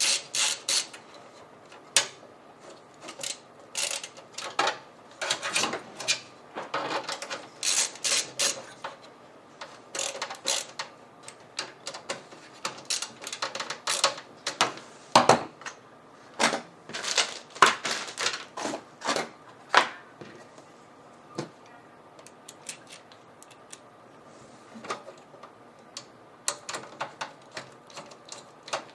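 Irregular clicks, taps and small knocks of metal and plastic parts being handled in a desktop computer case while expansion cards are fitted and screwed in. The clicks come thick and fast for most of the first twenty seconds, then thin out to scattered taps.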